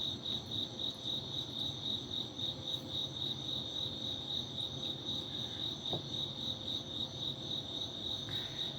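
Crickets chirping steadily, an evenly pulsing high trill, with a faint click about six seconds in.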